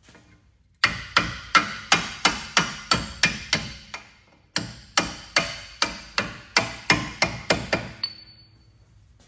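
A hammer striking metal in two runs of about ten quick, evenly spaced blows each, roughly three a second, with a short pause between the runs. A faint metallic ring lingers after the last blow.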